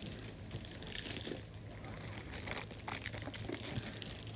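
Packaging crinkling and rustling in irregular bursts as items are lifted out of a box.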